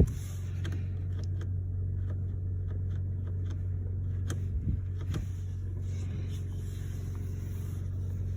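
2002 Chevrolet Impala's 3.8-litre V6 idling steadily, a low even hum heard from inside the cabin, with a couple of faint clicks about four and five seconds in.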